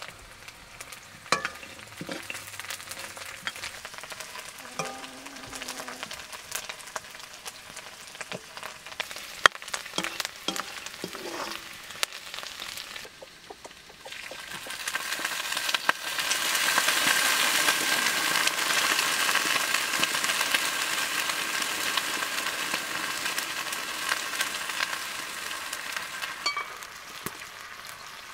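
Leafy greens frying in a hot iron wok over a wood fire: scattered clicks and knocks, then a loud sizzle that rises about halfway through and slowly dies down.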